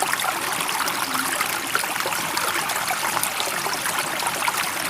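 Running water trickling and babbling steadily, with no rise and fall of waves.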